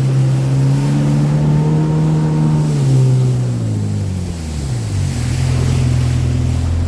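Motorboat engine running under way, its pitch easing down about four seconds in as the boat slows, then holding steady at the lower speed, with the rush of water and wind around the hull.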